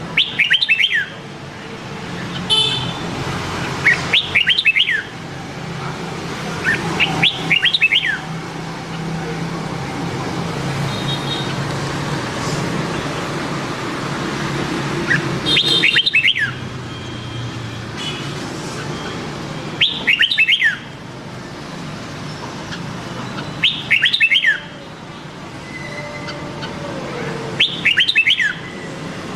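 Red-whiskered bulbul singing seven short, loud phrases of quick whistled notes, about one every four seconds, over a low steady hum.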